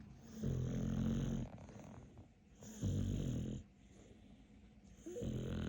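Dog snoring: three snores about two and a half seconds apart, each a low drone lasting about a second.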